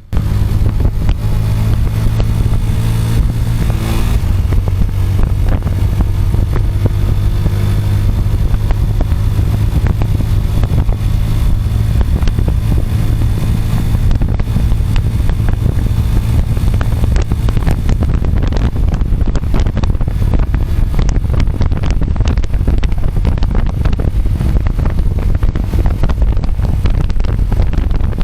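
A 125cc motorcycle's engine running at a steady pace while riding, with wind rushing and buffeting the bike-mounted microphone. The steady engine hum is clearest in the first few seconds, then wind noise and crackling buffeting grow.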